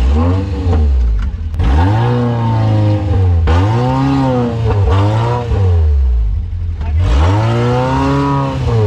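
Off-road 4x4's engine heard from inside the cab, revving up and dropping back about five times as it is driven over rough ground.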